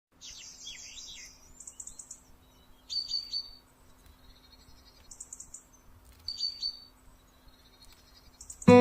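Birds chirping: short high calls and quick trills, a few every second or two, over a faint steady hum. Loud acoustic-guitar music starts right at the end.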